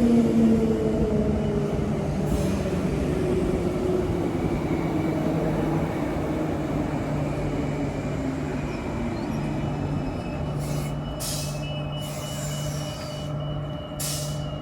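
A train running at the station, its motor and running note dropping steadily in pitch over the first few seconds while the sound slowly fades, over a steady low hum. A few short hisses come near the end.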